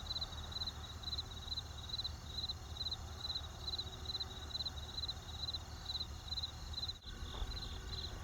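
Crickets chirping steadily, about two high chirps a second, each chirp a quick run of pulses, over a low steady rumble. Near the end the sound dips briefly, then a few soft campfire crackles come through.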